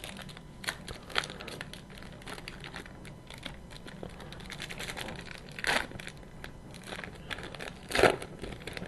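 Foil wrapper of a hockey card pack crinkling and tearing as it is opened, with cards being handled, made of a quick run of small crackles. Two louder crinkles stand out, one about halfway through and one near the end.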